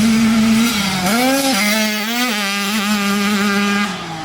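Dirt bike engine running hard under throttle. Its pitch climbs about a second in, holds high with small steps, and falls away near the end.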